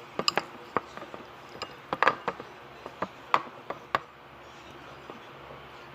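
Slime being pressed and stretched by hand, giving irregular sharp clicks and pops as air pockets burst. They come quickly for about four seconds, then die away.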